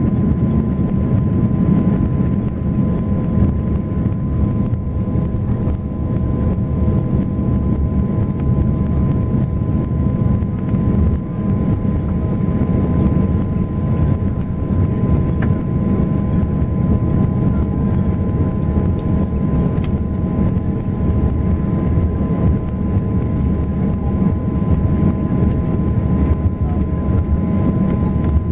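Steady cabin noise inside an Airbus A340 taxiing after landing: a low, even rumble of engines and air flow with a thin steady whine on top.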